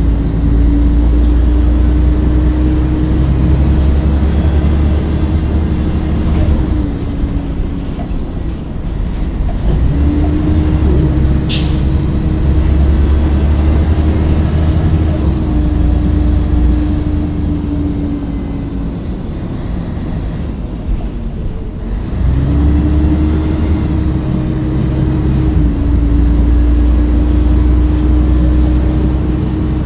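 Scania L113CRL bus's diesel engine and drivetrain running under way, with a steady whine that cuts out twice and comes back each time. A short sharp squeak about a third of the way in.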